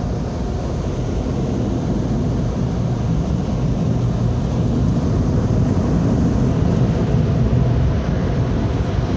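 Automatic car wash machinery running, a loud steady low rumble.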